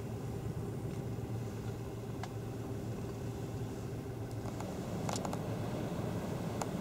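Steady car engine and road noise with a low hum, and a few faint clicks.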